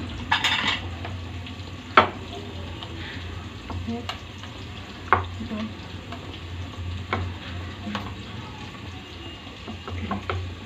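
Onion and ginger-garlic sizzling as they fry in hot mustard oil in a pot, with a louder hiss just after the start. Sharp clinks of a spoon scraping against a metal bowl sound every second or two.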